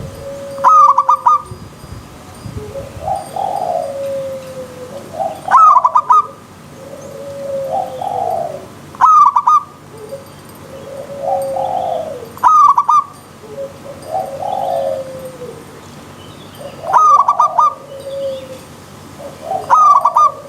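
Zebra doves (perkutut) singing their cooing song over and over. About every three to four seconds comes a loud quick stutter of notes, followed by lower rolling coos.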